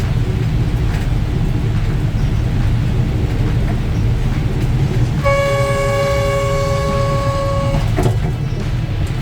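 Train running with a steady low rumble, heard from the driver's cab. A little past halfway the horn sounds once, a steady two-note blast lasting about two and a half seconds.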